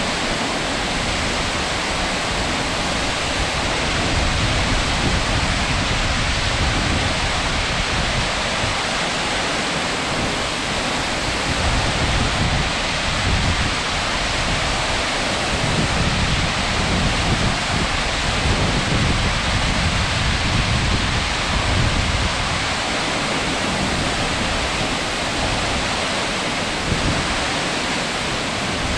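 Steady rush of a large plunge waterfall, Abe Ōtaki, about 45 m high, with water hissing across the whole range and a low rumble that swells and fades every few seconds.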